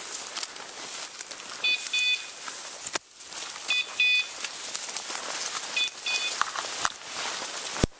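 Electronic dog beeper collar giving short double beeps about every two seconds, three times, over steady rustling of brush and leaves underfoot. A couple of sharp knocks come near the middle and near the end.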